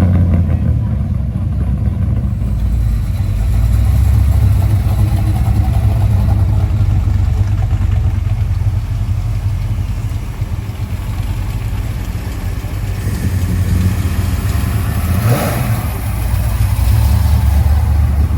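Muscle car engine running steadily with a low rumble, with a brief swell about fifteen seconds in.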